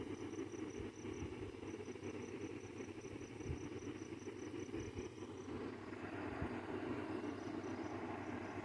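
Window air conditioner unit running with a steady buzzing hum. Above it, insects chirp in a fast, even pulse of about five a second, pausing a little past halfway and starting again near the end.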